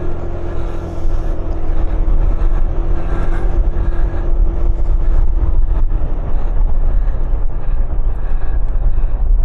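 Kymco 125cc motor scooter being ridden, engine running under a loud, steady low rumble. A steady hum drops away about six seconds in.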